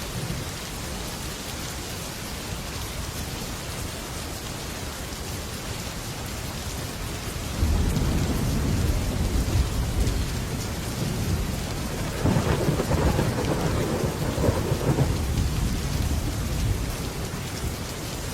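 Heavy rain drumming steadily on a metal roof, with thunder rolling in twice: a low rumble about halfway through, then a louder roll a few seconds later that dies away near the end.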